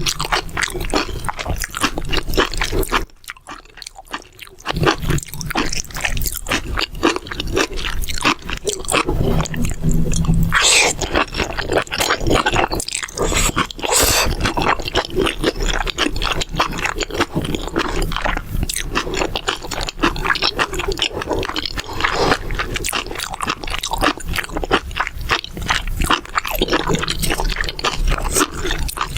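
Chewing and crunching of mala xiang guo, a spicy stir-fried dish, with dense wet mouth sounds and crackles. It briefly goes quiet about three seconds in.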